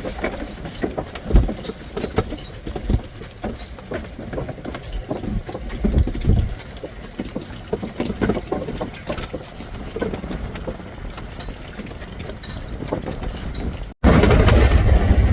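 Horses' hooves clopping at a walk in an uneven beat. Near the end a louder, steady low rumble takes over.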